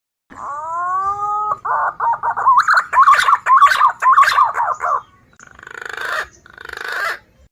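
Recorded call of a green pigeon (punai) played as a bird lure. It opens with a rising whistled note, goes into a fast run of wavering whistles, and ends with two harsh rasping notes.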